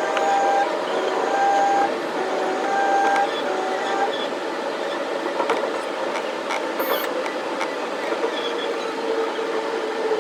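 Electric commuter train running, with a steady rumble of wheels and motors. A series of short steady tones comes in the first few seconds.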